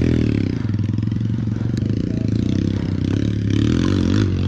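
Enduro motorcycle's single-cylinder four-stroke engine (Honda XR Tornado) being revved hard, its pitch swinging up and down as the rider works the throttle.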